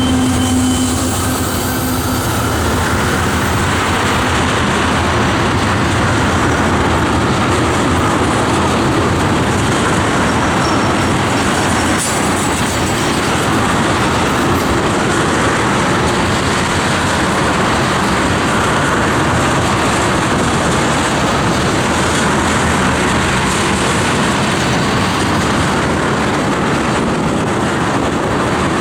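Freight train of tank cars rolling past at speed, a steady rumble of wheels on rail with clickety-clack over the rail joints. A low steady hum fades out in the first second or two.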